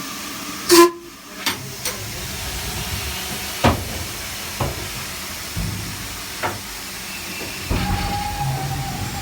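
Steam hissing steadily on the footplate of an Ivatt 2-6-0 mogul steam locomotive, with a short loud burst about a second in and sharp metallic knocks every second or two. A faint steady tone joins the hiss near the end.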